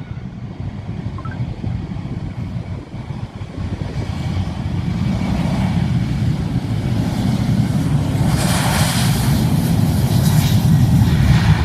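Aircraft engine noise growing steadily louder over several seconds, a broad rushing roar over a low rumble.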